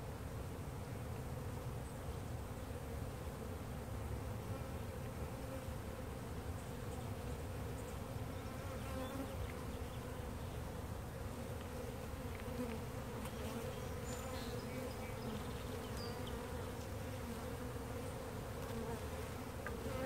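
Dense, steady buzzing of a large swarm of honey bees in flight, a colony stirred up by having its hive cut out.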